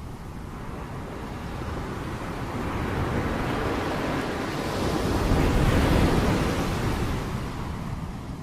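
Rain-sound ambience: a steady rushing noise that swells to a loud, deep peak about five to six seconds in, then fades back down.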